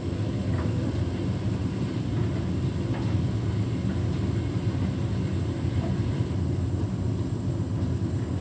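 Beko WTK104121W washing machine turning its drum with a steady low rumble as it tries to balance the load for an intermediate spin; it does not speed up into the spin, the load being out of balance.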